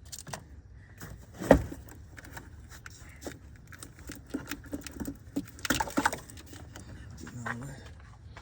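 Hand work on engine-bay parts: scattered clicks and knocks of tools and plastic intake parts being handled, with one sharp knock about a second and a half in and a quick run of clicks about six seconds in.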